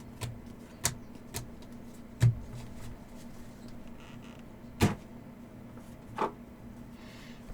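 Trading cards being handled on a table: a series of about six sharp taps and snaps, the loudest around two and five seconds in, over a steady low hum.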